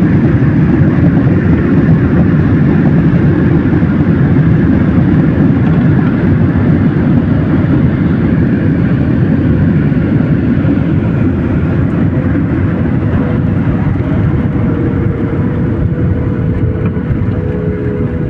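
Airplane landing: a loud, steady low rumble that slowly eases, with a faint whine appearing late on and dropping slightly in pitch.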